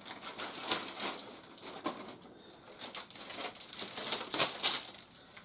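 Toy packaging being handled as the last piece is taken out: irregular rustling and crinkling in bursts, loudest about four seconds in.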